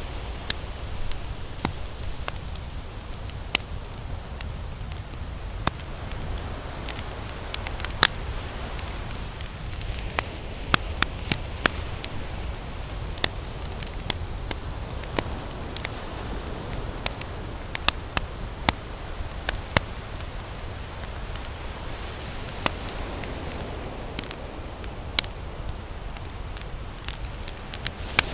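Wood campfire crackling, with frequent sharp, irregular pops over a steady low rushing background.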